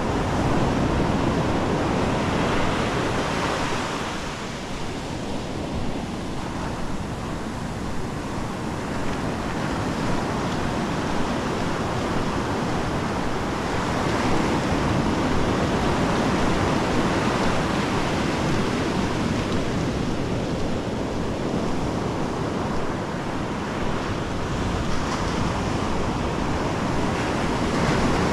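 Ocean surf: waves breaking and washing up the beach in slow swells, with some wind on the microphone.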